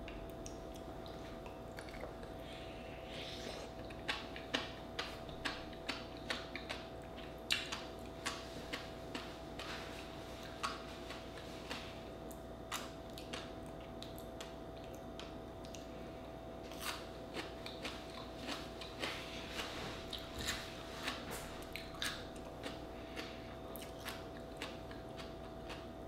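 Close-miked chewing of a raw oyster topped with fish roe: irregular soft wet clicks and smacks of the mouth, over a faint steady hum.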